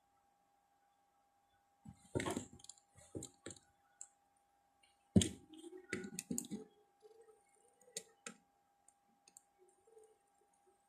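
Scattered clicks and light knocks of tools and small electronic parts being handled on a repair bench, the loudest about five seconds in, over a faint steady tone.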